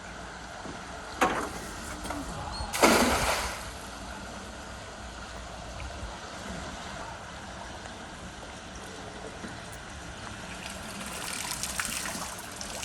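Water splashing and trickling as a cast net is worked from a small boat. There is a louder splash about three seconds in, then water runs and drips off the net for a stretch near the end.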